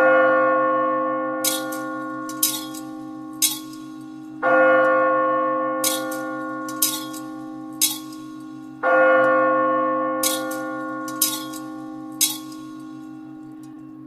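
A large bell struck three times, about four and a half seconds apart, each stroke ringing out and slowly fading. Between strokes come three short, high metallic tings, over a steady low hum.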